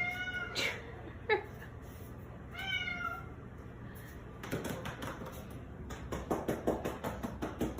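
A cat meowing: a short call at the start, a brief falling one about a second in, and another about three seconds in. Through the second half comes a run of irregular clicks and rustles.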